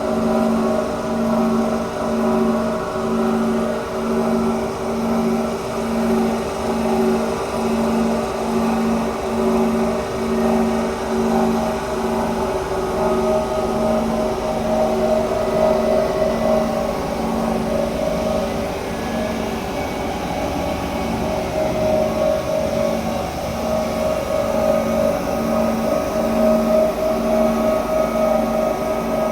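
Single-drum vibratory road roller's diesel engine running steadily during soil compaction, its hum pulsing evenly about once a second.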